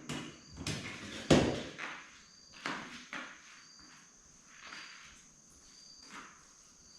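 A handful of irregular knocks, thuds and scuffs, the loudest about a second in, over steady high-pitched insect chirping.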